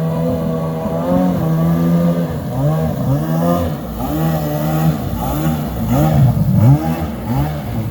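Small jet boat's engine running steadily, then revved in a series of quick blips from about two and a half seconds in, the pitch rising and falling with each one. The engine is still warming up.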